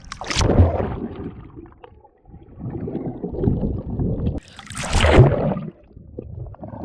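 Seawater splashing and sloshing close to the microphone as someone wades into the sea. Two loud splashes, one just after the start and one about five seconds in, with a low churning wash between them that cuts in and out.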